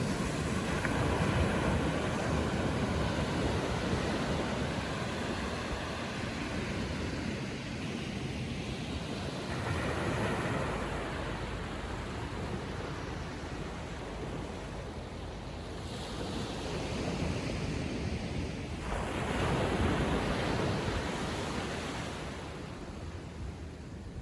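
Ocean surf on a calm sea: small waves breaking and washing up the beach, a steady wash that swells several times as waves come in.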